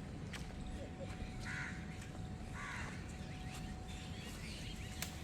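Birds calling outdoors: two short harsh caws about a second apart, over faint repeated chirping of small birds and a few light clicks.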